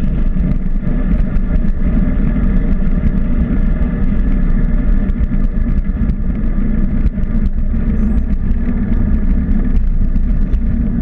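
Steady drone of a vehicle running at an even cruising speed, with wind rumbling heavily on the microphone. There are no changes in speed or pitch.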